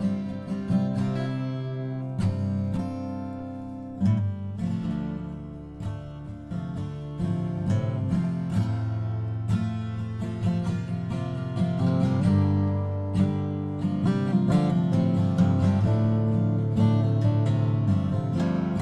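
Seagull S12 Coastline 12-string acoustic guitar, freshly restrung, being strummed and picked: chords ring out and change every few seconds.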